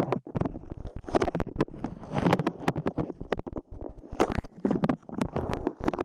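Light clay squished and pressed close to the microphone: dense sticky crackling with repeated muffled swells.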